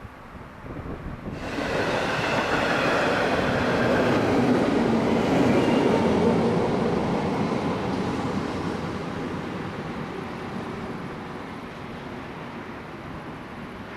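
A train passing on the rails: its rushing noise sets in suddenly about a second in, swells to a peak around the middle, then slowly dies away.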